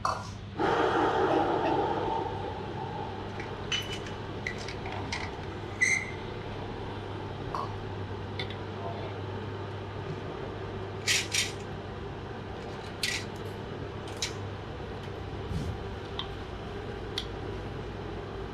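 Cooking utensils clinking against a pan and dishes, with sharp scattered clicks, over a steady low hum. A louder rush of sound starts about half a second in and lasts a couple of seconds.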